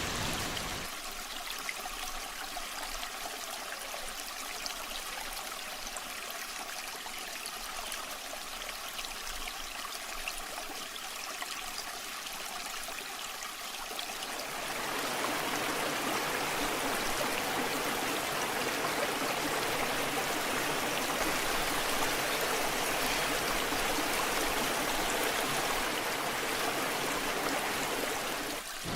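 Waterfall water running in a steady hiss. About halfway through it becomes fuller and louder.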